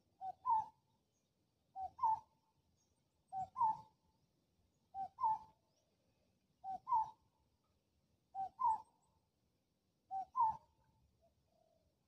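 A bird calling: a two-note call, the second note higher and louder, repeated seven times about every second and a half.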